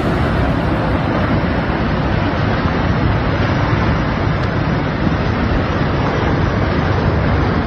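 Landslide on a mountainside: a loud, steady rushing rumble of falling rock and debris, with no breaks.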